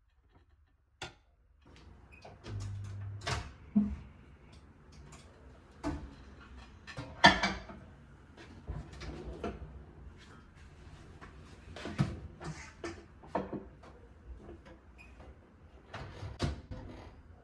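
Irregular knocks, clicks and clatter of objects being handled, the loudest about seven seconds in, over a faint low background.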